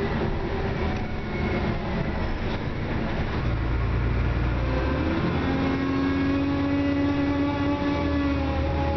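Dennis Trident double-decker bus running under way, its engine and drivetrain droning. About five seconds in, a whine rises in pitch and then holds steady as the bus pulls away: the odd acceleration noise of a clapped-out bus.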